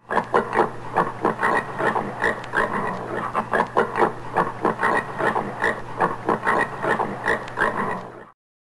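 Common warthog grunting in a rapid, continuous run of short grunts, several a second, that cuts off suddenly near the end.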